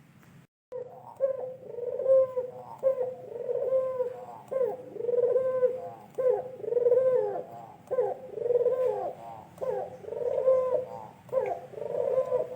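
A white dove cooing over and over in a long unbroken run. Each coo is low and has rising-and-falling notes above it. A short gap about half a second in breaks the sound off, and the cooing starts right after it.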